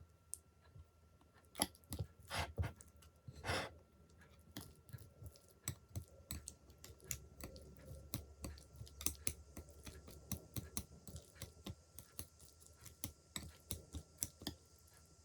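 Eating at a table: many small clicks of utensils on dishes, with chewing, and a few louder, longer sounds about two to three and a half seconds in.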